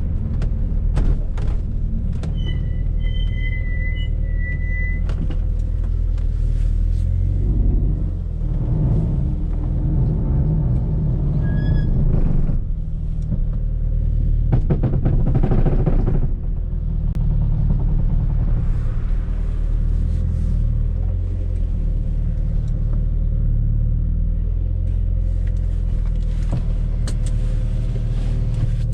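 Fiat Coupe 16V Turbo's turbocharged four-cylinder engine, heard from inside the cabin while driving. The engine pitch shifts up and down in the middle, with scattered sharp clicks and knocks from the interior, and a short high beeping tone a few seconds in.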